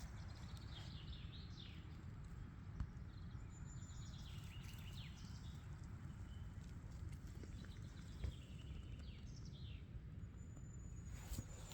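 Songbirds singing in woodland, a few short chirping phrases in turn, over a faint steady low rumble, with a couple of brief knocks.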